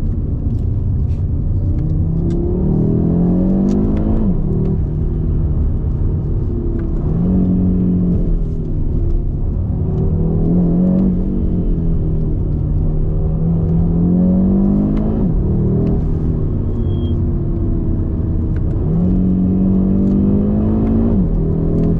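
Audi RS 3's turbocharged 2.5-litre five-cylinder engine heard from inside the cabin under hard driving, its pitch climbing under acceleration and dropping sharply at each upshift, then falling away as the driver lifts for the bends, several times over, above a steady road rumble.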